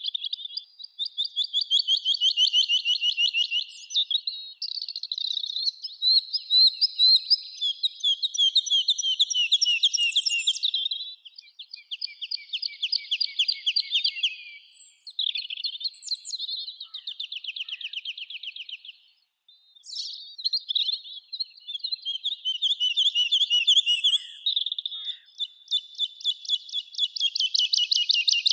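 Songbirds singing in a summer forest: long, rapid trills of quickly repeated high notes, one phrase running into the next, with a brief pause a little past two-thirds of the way through.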